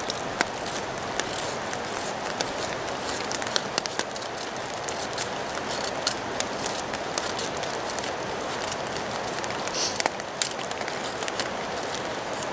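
Steady rain falling, with many scattered raindrops ticking sharply on nearby surfaces.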